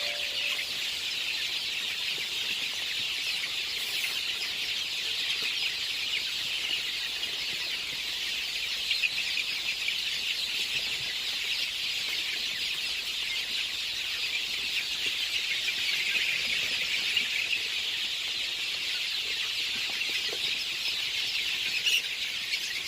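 A flock of month-old chicks peeping continuously, many high calls overlapping.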